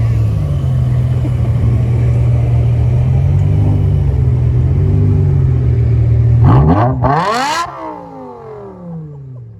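A car engine running steadily close by, then revving hard about six and a half seconds in, its pitch sweeping up sharply before falling away and fading as the car pulls off.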